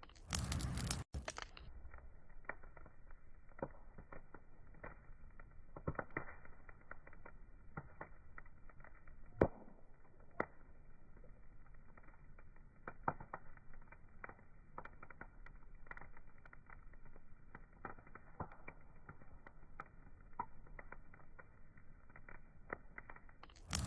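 Wood fire crackling: irregular small pops and snaps, with one louder snap about nine seconds in. A loud rushing burst about a second long comes just after the start and again at the very end.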